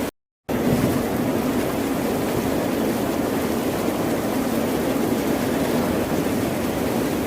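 Ocean surf as a steady, even rushing noise, strongest in the low-mid range, without distinct wave swells. The sound cuts out completely for a split second just after the start, then resumes unchanged.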